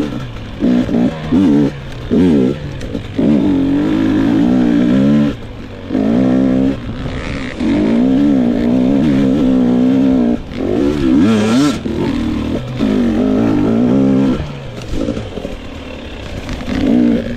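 GasGas EX 250 two-stroke enduro motorcycle engine revving up and dropping back again and again as the throttle is opened and shut, with short lulls between bursts lasting a second or two.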